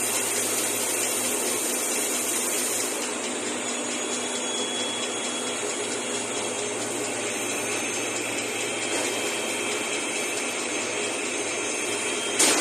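ABS/HIPS plastic sheet extrusion line running: a steady machinery hum and noise, with a high hiss that fades about three seconds in and a brief sharp sound at the very end.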